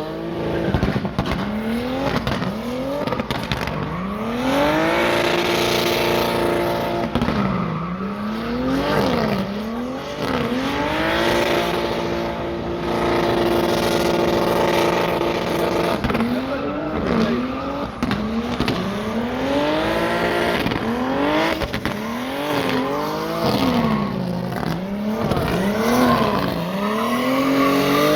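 Drift cars' engines revving hard in quick up-and-down sweeps, held at steady high revs for a few seconds twice, with tyres squealing as the cars slide.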